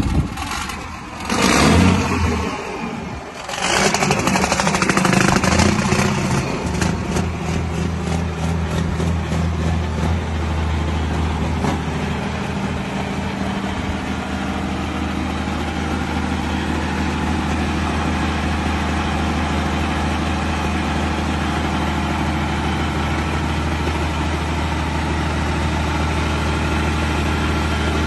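An engine is revved in loud, uneven bursts over the first few seconds, then settles into a steady low running drone.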